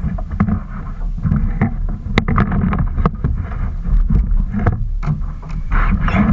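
Rumbling wind and water noise aboard a kayak, with scattered sharp knocks and clicks throughout.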